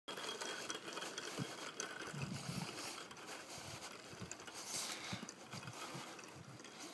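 Faint outdoor ambience: a steady hiss with soft, irregular low thumps.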